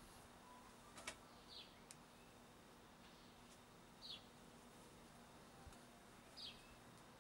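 Near silence, with a bird's short falling chirp repeated three times, about every two and a half seconds. A single light click about a second in.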